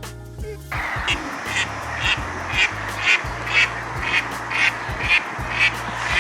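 Duck quacking repeatedly, about two quacks a second, over a rough hiss.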